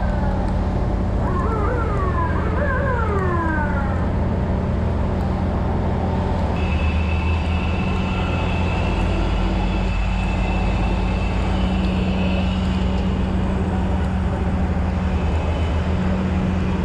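Vehicle engine running steadily, with a siren sweeping up and down in several short wails during the first few seconds.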